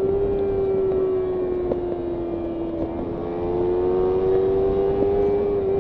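Kawasaki Ninja 300's parallel-twin engine under way at fairly steady revs, dipping slightly and then rising a little past the middle, over a steady rush of noise.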